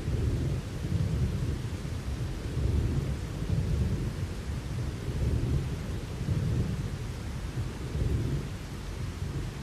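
Rolling thunder rumbling low and continuously, swelling and easing every second or so, over a steady hiss of rain.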